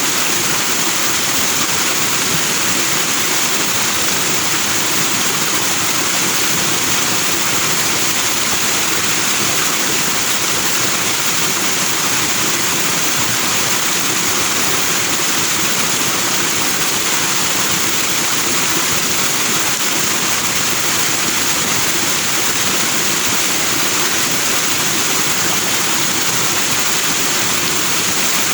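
Forest stream flowing over rocks with white foam: a steady, even rushing of water.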